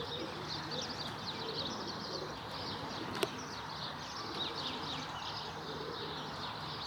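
Birds chirping continuously, with faint low pigeon cooing and a single sharp click about three seconds in.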